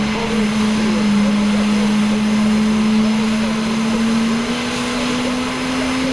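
Aircraft engine running with a steady hum whose pitch rises slowly.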